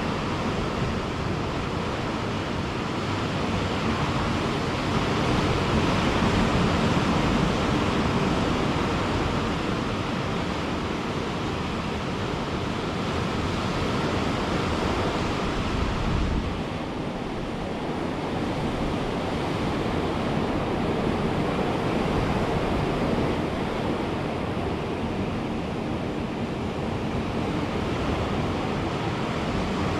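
Ocean surf washing onto a beach, a continuous rushing noise that swells about five seconds in, eases briefly around the middle and then builds again.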